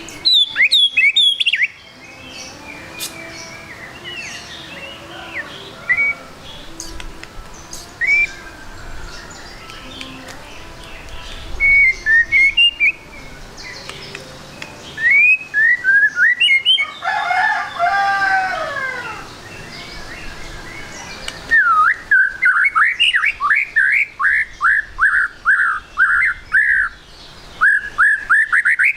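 White-rumped shama (murai batu) calling and singing: scattered chirps and whistled notes, a falling warbled phrase around the middle, then a fast run of repeated down-slurred whistles in the last third.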